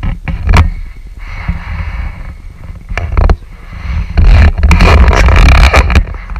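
A few sharp chopping strikes of a blade biting into a small tree's wood, the clearest about half a second in and twice around three seconds in. Heavy low rumble and rough scraping noise from a badly recording camera microphone run under them.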